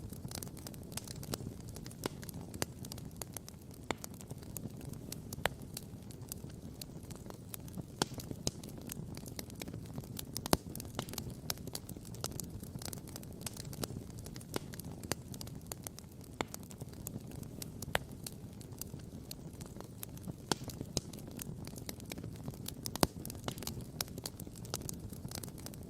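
Wood campfire burning, crackling and popping irregularly, with a few louder sharp pops, over a steady low rush.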